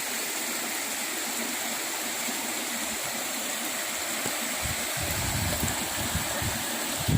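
Floodwater rushing steadily, a continuous watery hiss; a low rumble builds over the last couple of seconds.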